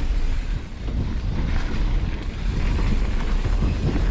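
Wind buffeting the microphone of a camera on a moving mountain bike, a steady low rumble.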